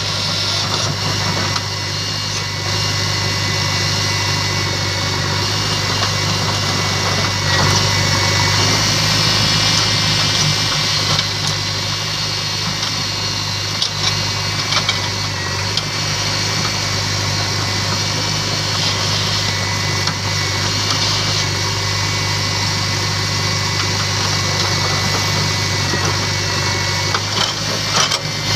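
Diesel engine of heavy earthmoving or farm machinery running steadily at a fairly constant speed, with a few faint knocks.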